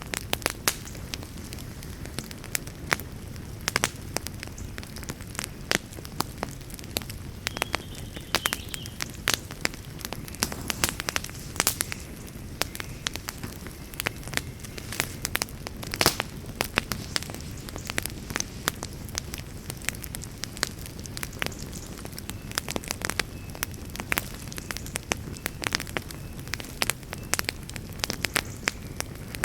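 Campfire burning with frequent sharp crackles and pops over a steady low rumble of flame, one pop standing out louder about halfway through.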